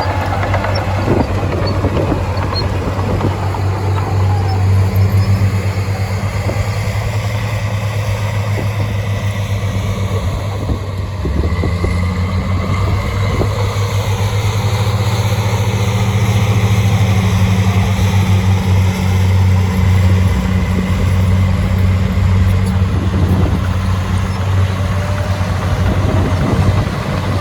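Heavy diesel engine of earthmoving machinery running steadily with a deep, pulsing rumble and a few knocks. The engine eases off briefly about eleven seconds in.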